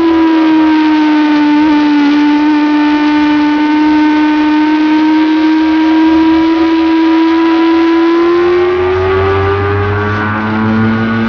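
Motorcycle engine at high revs, held at a nearly steady pitch through a long leaned-over corner, then rising in pitch as the bike accelerates out near the end.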